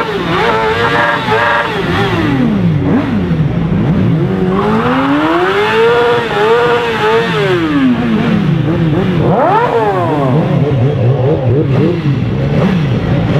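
Several vehicle engines revving hard over and over, their pitch rising and falling, with one long rev that climbs and drops slowly about halfway through.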